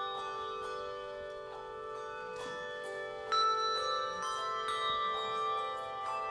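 Handbell choir playing: struck handbells ringing, each note sustaining and overlapping the next, with a new note every second or so.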